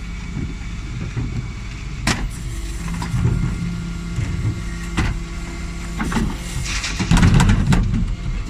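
Dennis Elite 6 bin lorry's diesel engine running steadily, with a few sharp knocks and a louder clattering burst near the end.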